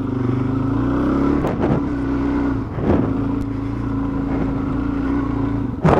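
Dual-sport motorcycle engine running at a steady, slightly wavering pitch while riding, with a couple of short knocks about one and a half and three seconds in.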